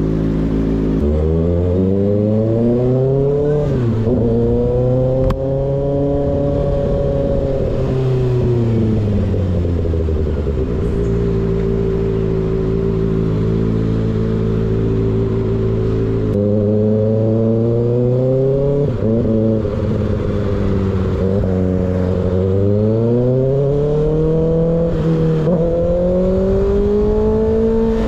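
Motorcycle engine with an open, baffle-less slip-on exhaust, heard from the bike itself: the pitch rises and falls as the throttle is opened and closed, with short dips at gear changes and a few seconds of steady cruising in the middle.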